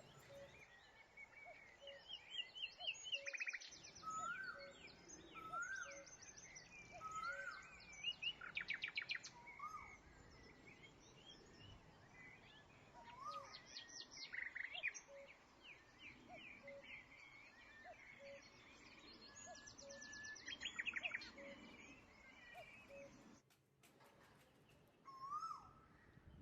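Birds chirping, with rapid trills and short rising whistles, fairly faint, over a faint regular ticking about once a second.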